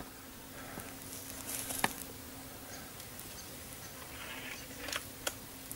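A flying insect buzzing with a steady low drone that fades out a little after the middle, with a few light sharp clicks of an air rifle being handled and loaded with a pellet.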